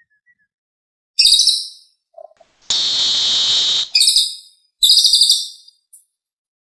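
Recorded call of the cililin bird, played as a trapper's lure: high, rapid trilled chirps in three quick bursts, with a harsh buzzing note about a second long between the first and second.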